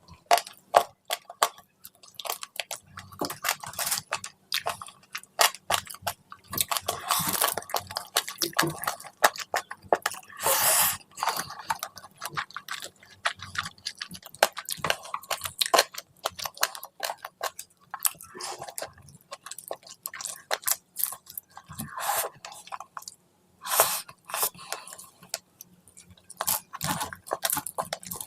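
Close-miked eating sounds: a person chewing and biting food, with many short, irregular clicks and crunches.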